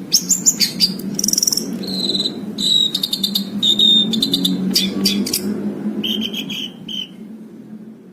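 Long-tailed shrike singing a varied song: quick chattering notes mixed with clear held whistles, the song thinning out near the end. A steady low hum runs underneath.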